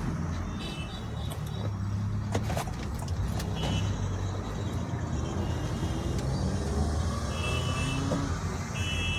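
Honda Elevate SUV heard from inside the cabin on the move: a steady low road-and-engine drone, with the engine pitch rising slowly at times. A few sharp clicks and several short high-pitched tones sound over it.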